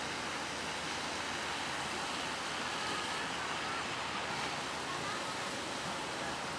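Steady rush of ocean surf and wind, even and unbroken.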